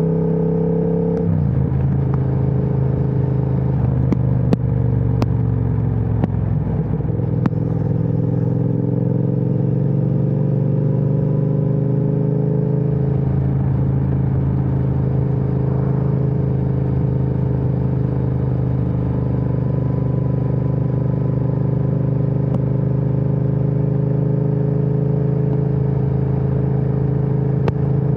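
Triumph Speed Twin 1200's parallel-twin engine running through an aftermarket Vance & Hines exhaust at riding speed. The revs drop sharply about a second in, then hold at a steady cruise with the pitch creeping up slightly for a while.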